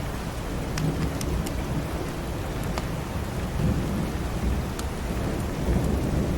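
Steady rain falling with a low rumble of thunder that swells about halfway through. A few sharp crackles from a wood fire in a fireplace sound over it.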